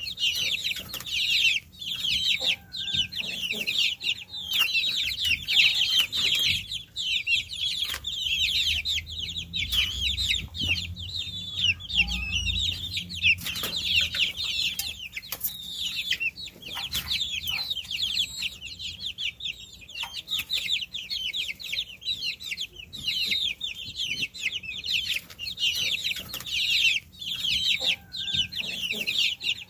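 A group of baby chicks peeping without pause: many high, short chirps that fall in pitch, overlapping one another.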